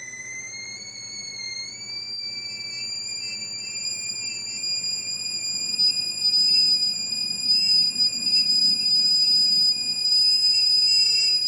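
A high, steady whistle-like electronic tone that glides slightly up in pitch over the first two seconds, then holds and grows louder.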